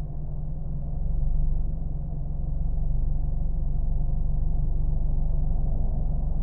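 Car engine running steadily: a continuous low droning rumble that swells slightly about a second in.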